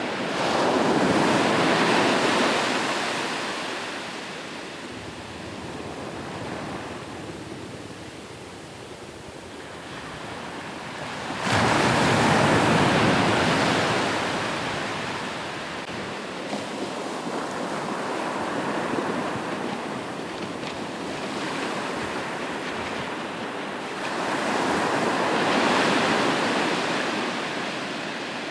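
Ocean waves breaking on the shore: three waves in turn, about a second in, a sharper one near the middle that crashes in suddenly, and another near the end. Each swells and then washes away, with a steady wash of surf between them.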